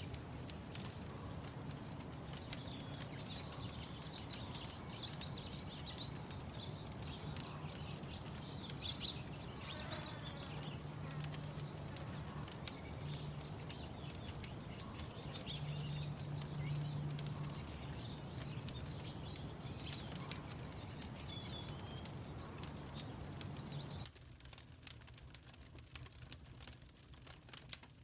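Birds chirping over a wood fire crackling with scattered pops. Near the end the birdsong and background hush cut off abruptly, leaving only the crackle.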